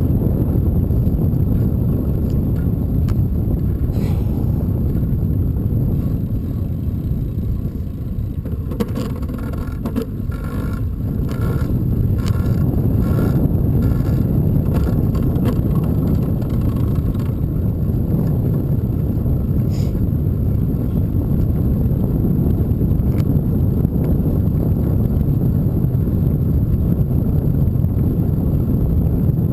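Steady low wind rumble and road noise on a microphone riding along on a bicycle, easing for a few seconds about a third of the way in.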